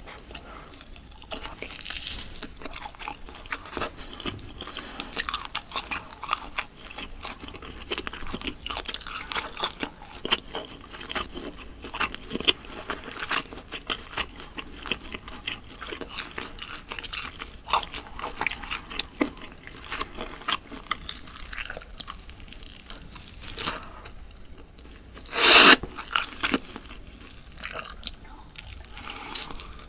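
Close-miked chewing of grilled meat skewers: a steady run of small, wet crunches and bites, with one louder noise about 25 seconds in.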